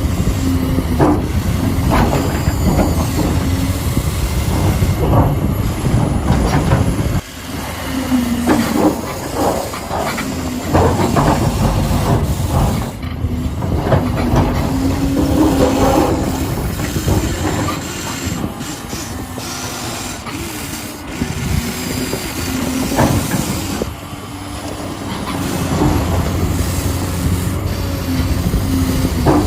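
Huina 1593 RC excavator's electric motors and plastic gearboxes whirring, with rattling and clicking from its tracks and moving parts; the motor pitch shifts as different functions start and stop.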